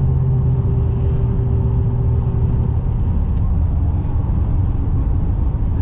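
Plow truck driving at a steady road speed: a constant low drone of engine and tyre noise.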